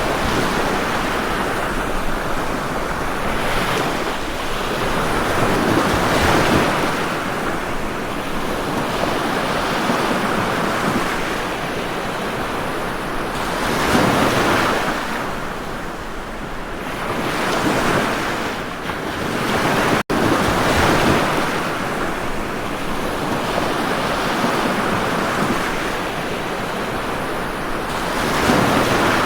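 Ocean waves breaking and washing in: a continuous rush of surf that swells and fades every few seconds. A momentary cut-out breaks it about two-thirds of the way through.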